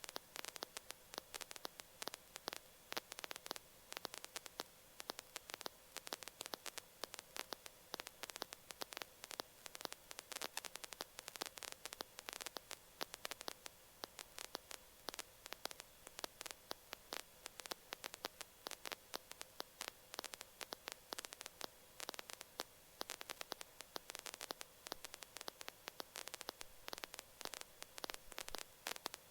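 Faint crackling static over a steady hum on the radio audio feed, with no one transmitting.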